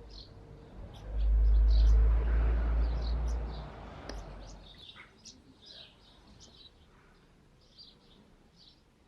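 Small birds chirping and singing, with short high calls all through. About a second in, a loud low rumble rises and lasts about three seconds before fading.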